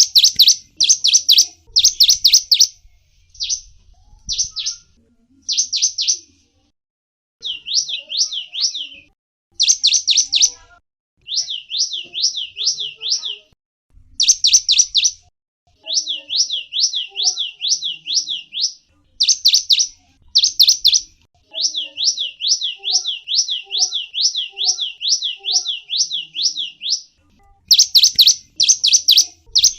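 A small songbird singing phrases of rapid, high-pitched repeated notes, each a quick down-and-up sweep. The phrases run from a few notes to a long run of more than a dozen, with short pauses between them.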